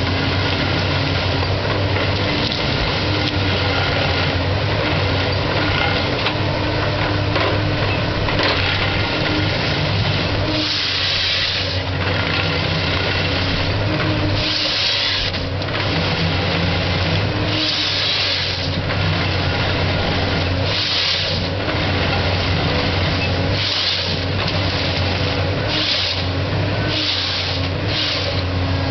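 Komatsu PC228 forest harvester's diesel engine running steadily under working load, with repeated short bursts of hissing from about a third of the way in, coming closer together near the end.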